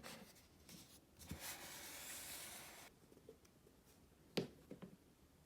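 A soft rubbing sound lasting about two seconds, then a few light clicks.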